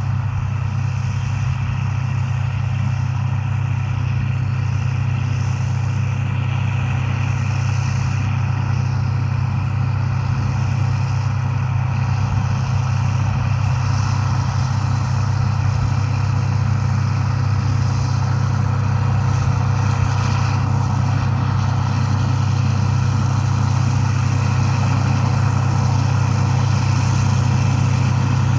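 Farm machinery engine running steadily at constant speed, a continuous low drone.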